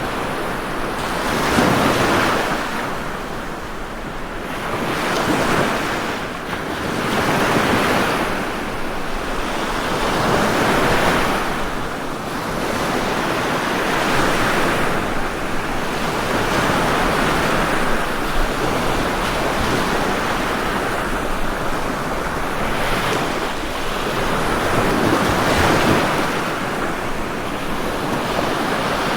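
Ocean waves breaking and washing on a shore, a continuous rush of surf that swells every few seconds, with some wind.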